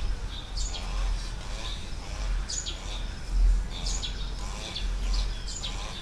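A bird calling repeatedly: a short, high call about once a second, over an uneven low rumble.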